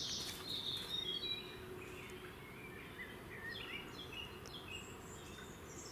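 Small birds singing: a run of short, high chirps and trills, some stepping down in pitch, over a faint steady background noise.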